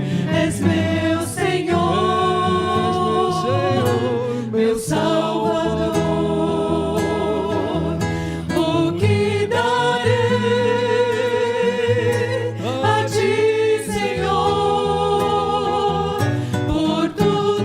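A vocal group singing a Christian worship song in harmony over instrumental accompaniment.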